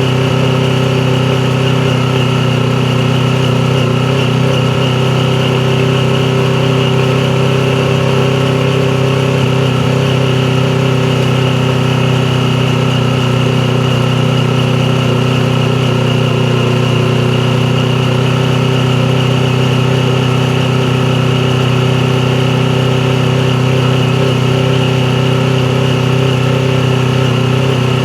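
Yamaha YZF-R3's parallel-twin engine idling at a steady, unchanging pitch.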